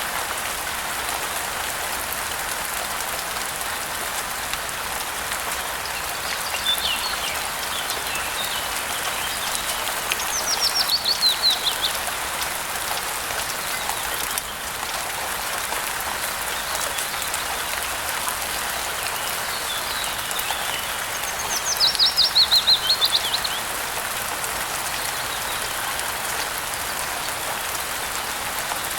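Steady rain falling, with a songbird twice giving a quick run of high chirps that fall in pitch and last about two seconds each, louder than the rain, plus a few fainter chirps.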